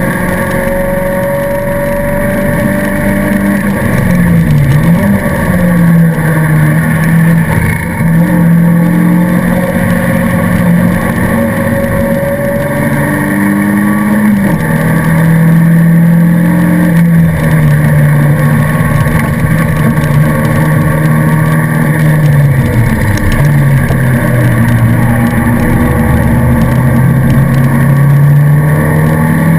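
Race car engine heard from inside its own cockpit, running hard at high revs under racing load. The pitch drops and climbs again several times at gear changes and lifts for corners.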